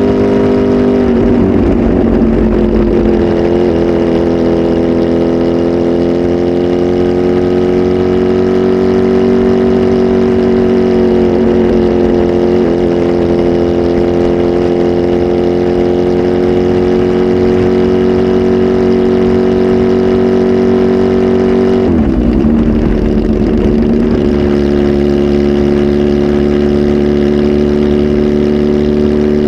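Kawasaki Z H2 SE's supercharged 998 cc inline-four, flash tuned and breathing through a full aftermarket exhaust system, running loud at a steady engine speed. Its pitch dips briefly three times, settling a little lower after the last dip.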